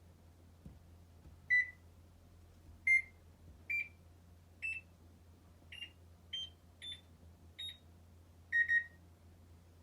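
Electronic beeps from the control panel of a Hitachi BeatWash BW-DX120E washing machine. There are eight short beeps, each a step higher in pitch than the last, then a quick double beep at the starting pitch near the end.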